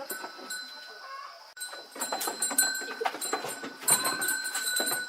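Chickens clucking over a steady high-pitched whine, getting louder about one and a half seconds in.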